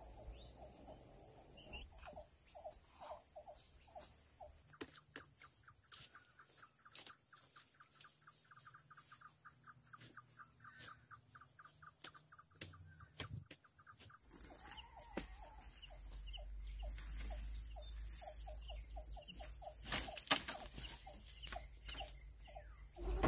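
Outdoor rural ambience: a bird calling in long runs of short repeated notes, several a second, over a steady high drone. The drone stops for a while in the middle, and there are scattered faint clicks.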